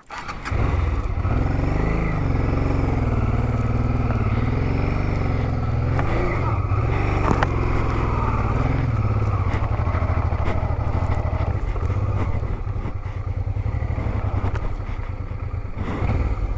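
Honda Transalp 650's V-twin engine pulling a motorcycle up a dirt path, its revs rising and falling unevenly for the first several seconds, then settling steadier and a little quieter.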